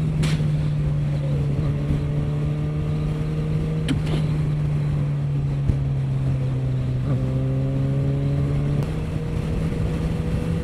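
Kawasaki H2 SX SE's supercharged inline-four engine at a steady highway cruise, a steady engine drone with wind rush. Its pitch dips slightly about four seconds in and comes back up near nine seconds.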